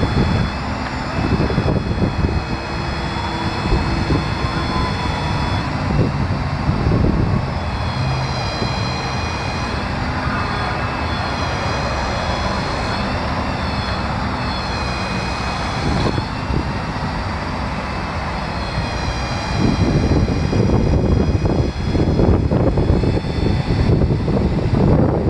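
The Ford F550's 6.7-litre turbo diesel engine running steadily, with a high whine over it that wavers slightly in pitch midway. A louder, rougher low rumble comes in over the last few seconds.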